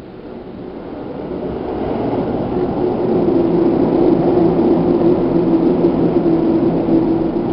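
Running noise inside a Seibu New 2000 series train's motor car: a rumble of wheels on rail that swells over the first few seconds and then holds steady, with a low even hum under it.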